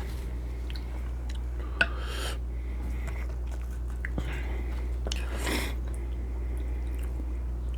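A person chewing and biting a mouthful of Mexican shrimp cocktail close to the microphone: scattered wet mouth clicks and a few short chewing smacks, over a steady low hum.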